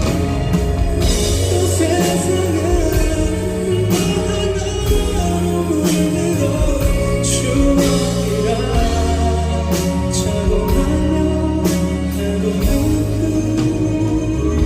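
Live band playing a pop ballad, with bass, drums and several cymbal crashes, under a sung melody.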